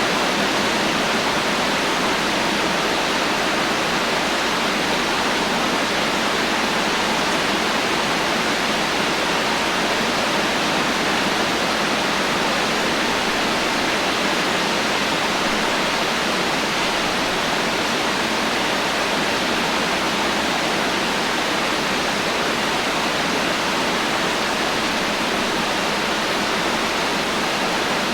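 Heavy rain falling steadily, a dense even hiss with no thunder and no separate drops standing out.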